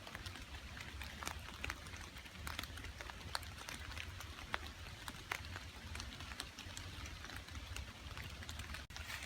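Rain falling in woodland: many irregular drops tapping sharply on wet leaves and surfaces close by, over an even hiss and a low steady rumble.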